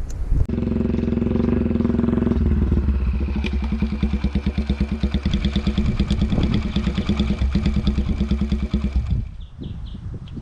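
Small motorbike engine running steadily with a rapid even firing pulse, cutting off abruptly about nine seconds in. A few faint short high chirps follow near the end.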